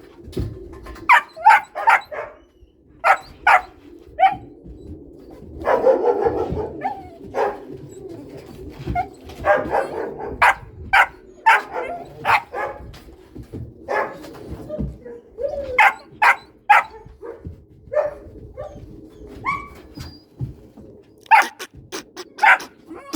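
Cane Corso puppies barking in short, high yips, many in quick succession, with a couple of longer, louder stretches of barking.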